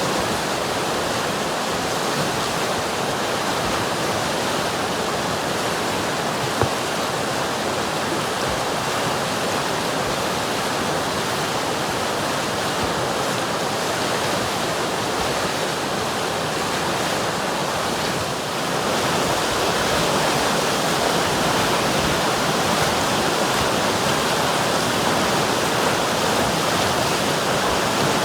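River water flowing, a steady rushing noise; it grows a little louder about two-thirds of the way through.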